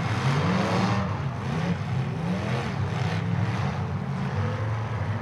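Several demolition derby car engines revving hard together, their pitches rising and falling as the cars drive and ram one another.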